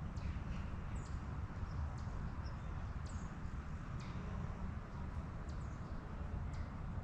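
Birds chirping in short, high calls every second or so over a steady low rush of light breeze.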